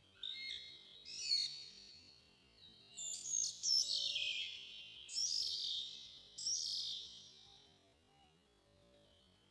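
Wild birdsong played back slowed down, so the calls come out lower and stretched, almost like a synthesizer: a handful of sweeping, mostly falling phrases, fading out near the end.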